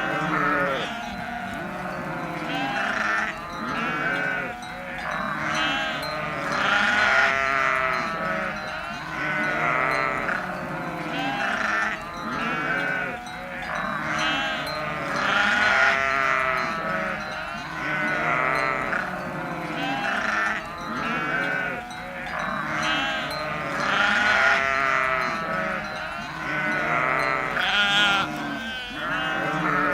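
A flock of sheep bleating, many wavering calls overlapping one another without a break.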